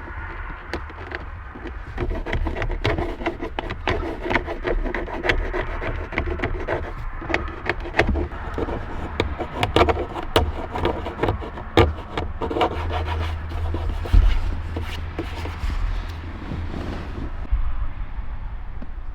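Plastic dashboard trim rubbing, scraping and clicking as the instrument surround is worked into place around the gauge cluster: an irregular run of small knocks and rubs that settles down near the end.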